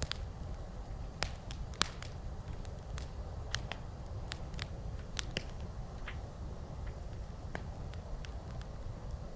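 Wood campfire crackling: irregular sharp pops and snaps, the loudest a little under two seconds in, over a steady low rumble.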